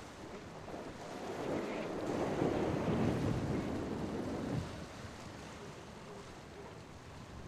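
Waves washing and wind on the microphone at the ocean inlet. The water noise swells from about a second in and drops off sharply a little past the middle.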